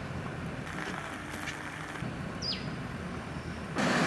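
Outdoor ambient sound: a steady low hiss with a bird's short falling call about two and a half seconds in. Near the end a louder, even rushing noise cuts in suddenly.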